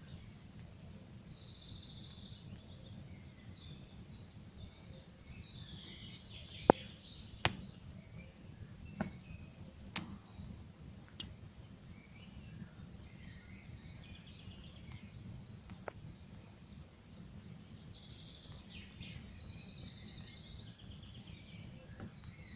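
Campfire crackling, with a few sharp pops of burning wood (the loudest about a third of the way in) over a low steady rumble. Small birds trill and chirp throughout.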